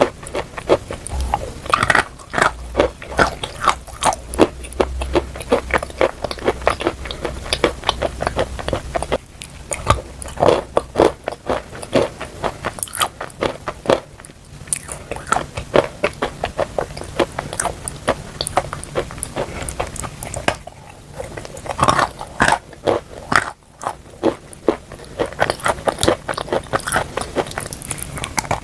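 Close-up crunching of chalk coated in clay paste: repeated bites and chewing make dense runs of sharp crunches, with a few short pauses between bites.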